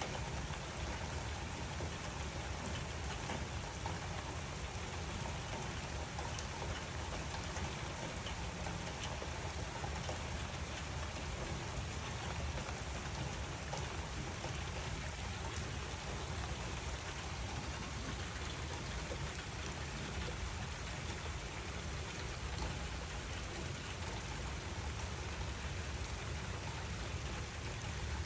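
Steady rain falling: a dense, even hiss of many drops over a strong low undertone, with no thunder or other events.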